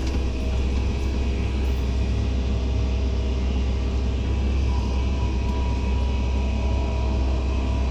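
Heavy diesel earthmoving machinery running steadily with a deep, even drone. A faint high whine comes in about two-thirds of the way through.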